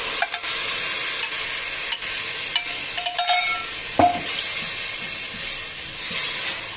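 Oil and butter sizzling in a pot as boiled whole black masoor lentils are poured in with their cooking water and stirred with a spatula. A few sharp knocks of the spatula against the pot, the loudest about four seconds in.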